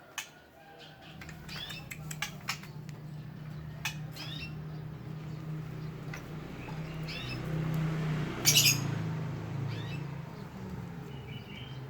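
White-rumped shama giving short harsh calls and chirps at intervals, the loudest burst about eight and a half seconds in, over a low steady hum.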